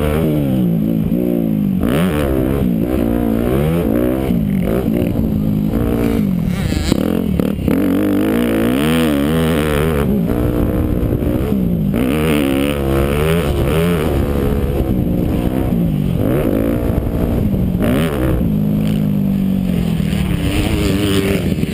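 Yamaha YZ250F four-stroke single-cylinder motocross engine revving up and falling back over and over as the rider accelerates, shifts and rolls off the throttle round the track. There are a few brief knocks along the way.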